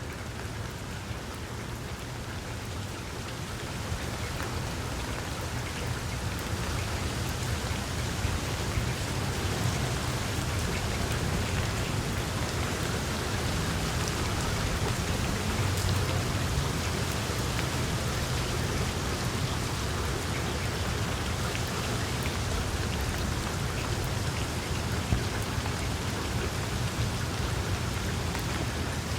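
Wood fire burning in a fireplace: a dense crackle of small pops over a steady low rumble of the flames, getting a little louder over the first few seconds, with one sharper pop near the end.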